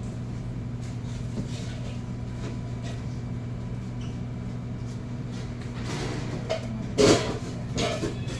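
Steady low hum of the sandwich shop's background, with a sharp clatter about seven seconds in, like a container or lid knocked at the counter, and a smaller knock shortly after.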